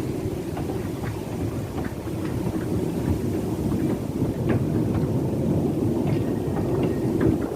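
Talyllyn Railway narrow-gauge train running along the track: a steady low rumble of the carriages with scattered sharp clicks from the wheels and couplings.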